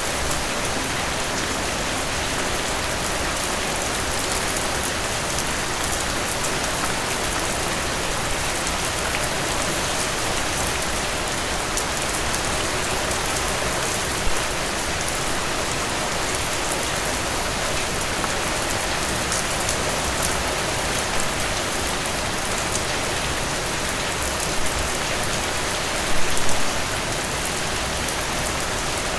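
Steady rainfall: an even hiss of rain on surfaces with individual drops ticking, swelling briefly a few times, most strongly a little before the end.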